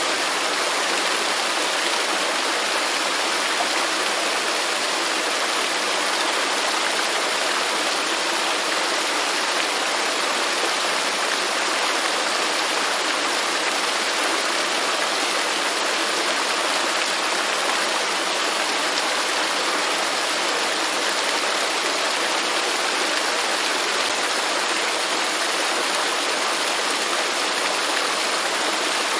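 Waterfall: a steady, unbroken rush of falling water, hissy and even, with little deep rumble.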